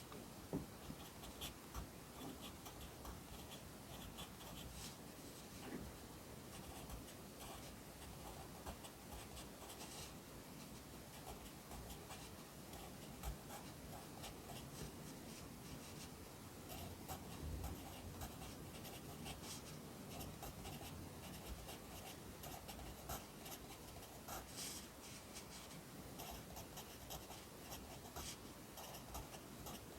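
Pencil writing Korean characters on paper: a steady run of short scratching strokes with occasional light taps.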